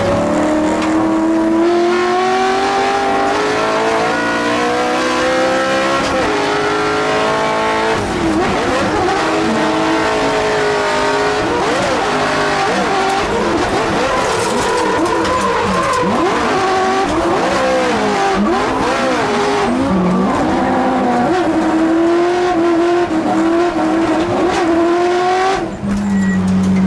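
Drift car's engine heard from inside the stripped cabin: revs climb steadily for the first few seconds, then swing up and down rapidly as the throttle is worked through the drift, with tyre squeal underneath, and drop suddenly near the end.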